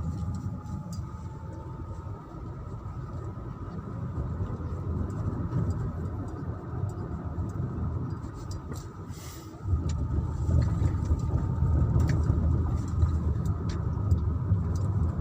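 Car running along the road, heard from inside the cabin: a steady low rumble of engine and tyres that grows louder about ten seconds in.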